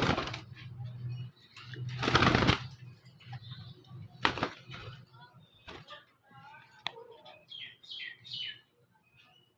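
Lovebirds fluttering their wings in bursts, the longest about two seconds in. A few short, high chirps follow near the end.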